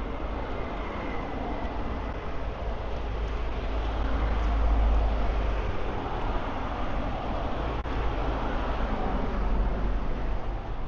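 Road traffic noise: a steady rumble of passing vehicles that swells to its loudest about halfway through as a vehicle goes by.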